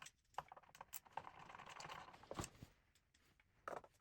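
Faint scattered clicks and taps of small screws and parts being handled and set down, with a soft scrape about a second in.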